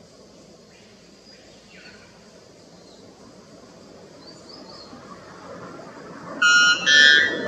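White bellbird giving its two-note call near the end: two very loud notes in quick succession, over faint, steady insect sounds.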